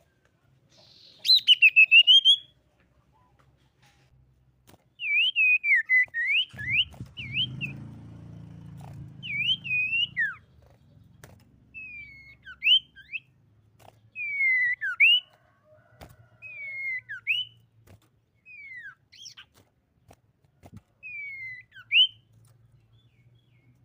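Common iora singing: a quick run of whistled notes about a second in, then a string of short, sharply slurred whistles, many falling in pitch, in phrases separated by brief pauses.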